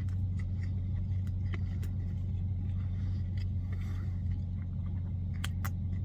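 Steady low hum inside a car cabin, with scattered soft crunching clicks of someone chewing a bite of crispy fried chicken sandwich; two sharper crunches come near the end.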